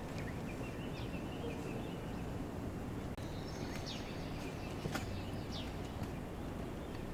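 Outdoor ambience: a steady low rumble with faint bird chirps, and a single sharp click about five seconds in.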